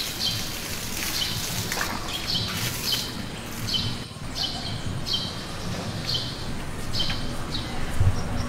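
A bird chirping over and over, short falling chirps about twice a second, over a steady background noise.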